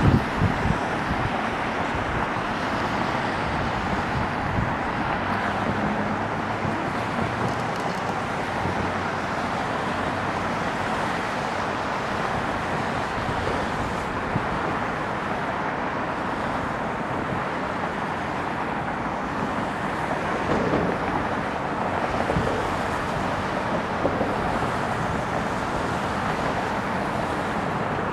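Steady outdoor background noise: wind on the microphone over a distant hum of road traffic, with no aircraft clearly rising out of it.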